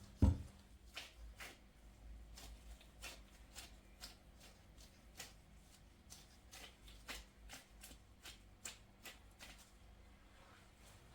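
A low thump just after the start, then a run of light, irregular clicks and taps, as from hands handling small objects.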